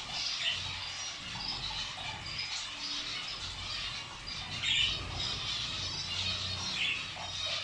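Many small caged birds chirping and squawking together, with overlapping short calls and a few louder squawks.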